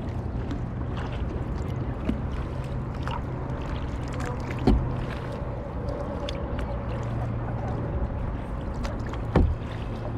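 Kayak paddling: water splashing and trickling off the paddle blades as it is stroked. Sharp knocks come three times, a small one about two seconds in and louder ones about halfway through and near the end.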